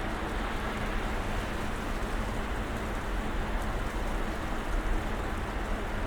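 Snowstorm ambience: a steady, even hiss with a low rumble underneath.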